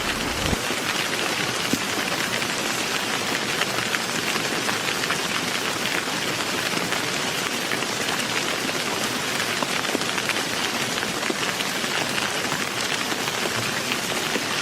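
Heavy rain falling steadily: a dense, even patter of many drops. A low rumble carried over from before dies out about half a second in.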